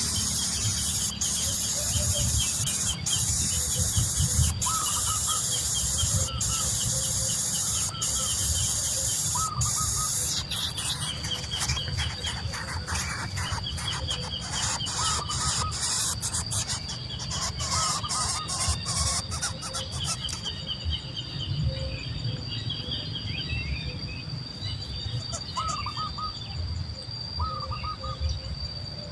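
Birds chirping: repeated short chirps over a steady high-pitched whine. A loud hiss runs for the first ten seconds or so, then gives way to scattered clicks.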